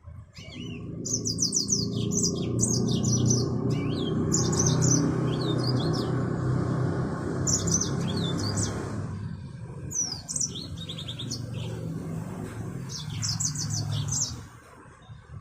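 Mozambique finch (yellow-fronted canary) singing: short phrases of rapid, high chirping notes repeated throughout. Underneath is a loud low rumble that eases after about nine seconds and stops near the end.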